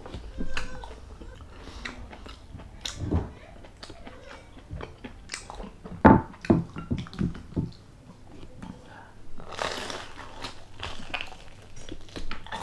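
Close-up mouth sounds of biting and chewing crispy deep-fried pork intestine (chicharon bulaklak): many small crunches and clicks, with a run of louder knocks about six to seven seconds in and a crackling crunch near ten seconds.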